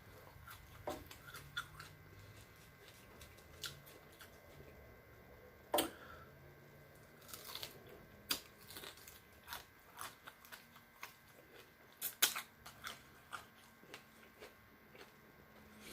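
A person biting and chewing crispy lemon pepper chicken wings close to the microphone: scattered, irregular crunches and wet mouth clicks, with a couple of louder crunches about six and twelve seconds in.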